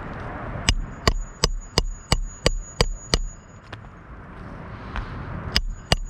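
Hammer driving nails into asphalt roof shingles: eight quick, evenly spaced strikes at about three a second, with a faint high metallic ring, then a pause and two more strikes near the end.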